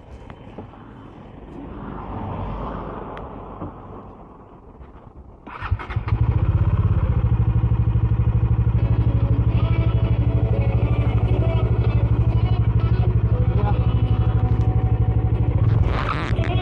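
Bajaj Dominar 400's single-cylinder engine on its stock exhaust starting about five seconds in, then idling steadily with a fast, even pulsing beat.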